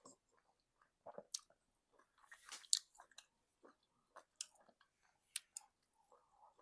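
Close-miked chewing of egusi soup with semolina: soft, wet mouth clicks and smacks at irregular intervals, with a longer breathy noise about two and a half seconds in.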